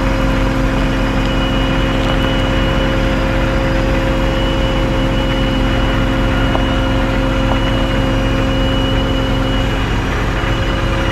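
Tow truck engine running steadily through a winch pull, with a constant whine held over the low engine hum.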